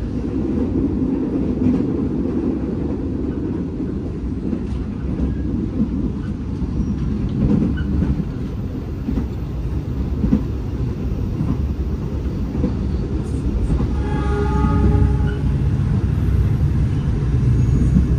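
Steady low rumble of a moving passenger train heard from inside the carriage as it runs along the track. There is a brief pitched tone about fourteen seconds in.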